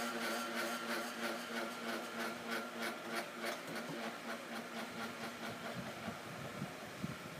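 Electric stand fan motor running at low speed with a steady hum and a regular ticking about three times a second, the noise of a sticking shaft in a worn bushing. The ticking fades and the hum dies away near the end as the fan stops.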